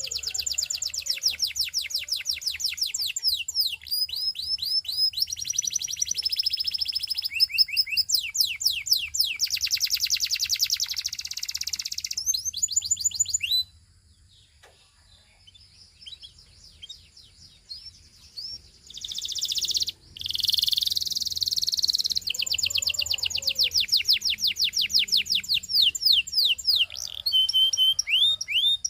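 Canary singing in fast trills, rolls of rapidly repeated high notes and short glides. The song breaks off about halfway through, leaving a few scattered notes for several seconds, then resumes.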